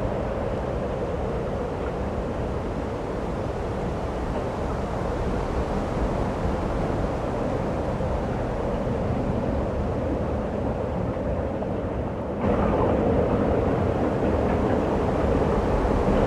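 Steady roar of wind in a snowstorm, with no distinct knocks or clicks. It steps up suddenly and gets louder about twelve seconds in.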